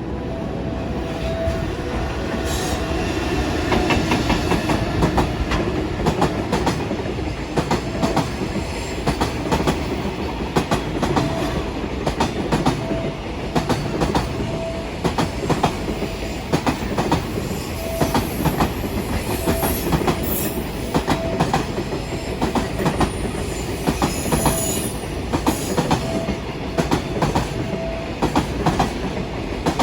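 Long container freight train passing, its wheels clattering over the rail joints in a fast, unbroken run of clicks.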